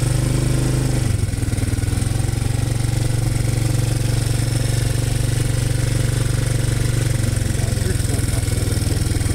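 An engine running steadily with a fast, even firing beat. A higher tone over it stops about a second in.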